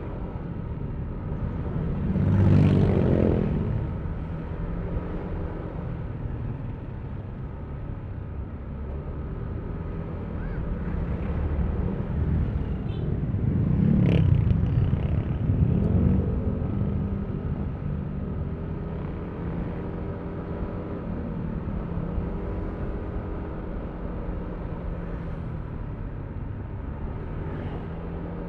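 Yamaha Aerox V3 scooter's 155 cc single-cylinder engine running steadily under way, with road and wind noise. The sound swells louder twice: about three seconds in, and again around fourteen seconds in.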